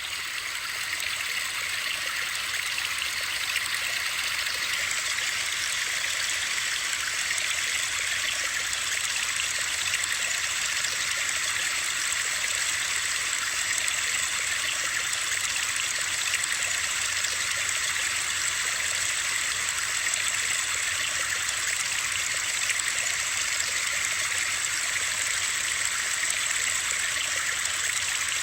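Steady, even hiss of a white-noise sleep-sound track, with the rushing character of running water or rain and most of its energy in the upper range.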